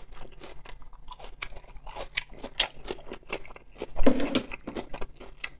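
Close-up chewing of a mouthful of shredded cabbage salad, with crisp crunches and wet mouth clicks. A louder, fuller mouth sound comes about four seconds in.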